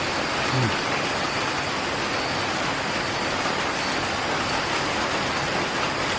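Steady rushing background noise, even and unbroken, with a brief low hum about half a second in.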